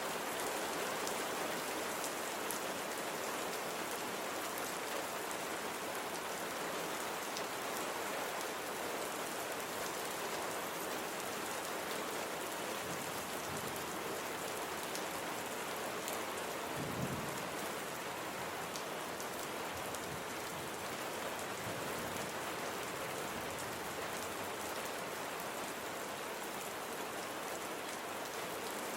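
Steady rain falling on a surface, an even hiss with fine pattering drops. A brief low rumble comes a little past halfway.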